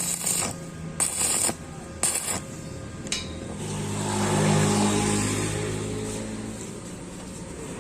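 A motor vehicle's engine going by, growing louder to a peak past the middle and then fading. Near the start there are three short bursts of hiss.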